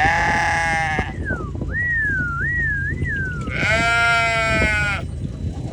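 Dorper sheep bleating: two loud, drawn-out bleats about three and a half seconds apart, the first right at the start. Between them comes a thin, wavering whistled note.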